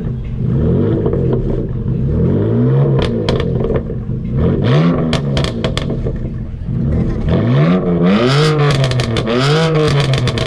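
BMW engine revved in about four throttle blips, its pitch rising and dropping back toward idle each time, the later blips longer. Sharp crackling pops come with several of the blips.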